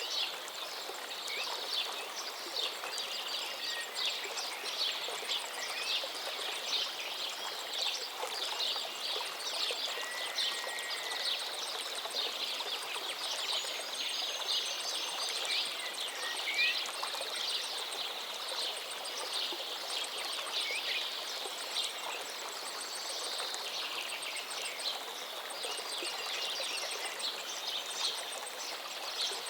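A river flowing steadily, with many birds chirping rapidly and continuously over it and a few clear whistled notes standing out.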